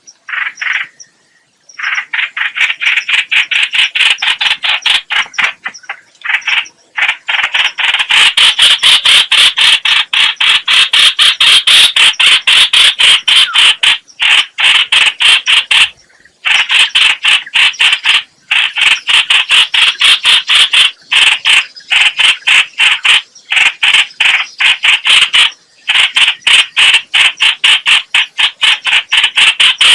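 Trao trảo bird (chao chảo, hoành hoạch) calling in a long, loud, fast chatter of harsh repeated notes, about four a second, broken by brief pauses.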